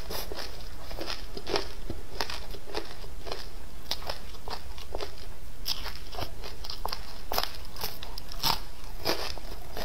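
Close-miked crunching and chewing of fried small crucian carp, its crisp skin and bones crackling in irregular crunches several times a second.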